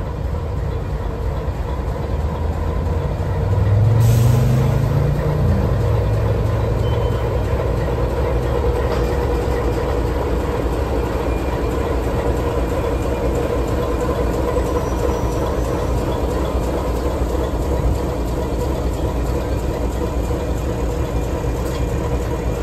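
Train pulling slowly past the platform: a continuous low rumble of the carriages and a diesel locomotive running at the rear, its engine note rising about three to five seconds in, with a sharp hiss about four seconds in.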